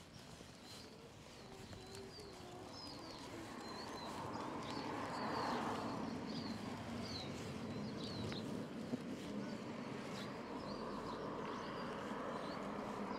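Small songbirds chirping and twittering over and over, with an outdoor background hum that swells a few seconds in and then holds steady.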